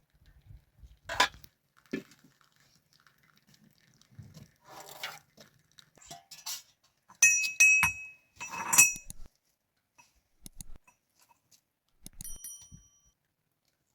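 Dishes or kitchenware clinking: scattered soft knocks and rustles, with two loudest sharp clinks that ring briefly about seven and eight and a half seconds in, and a fainter ringing clink near the end.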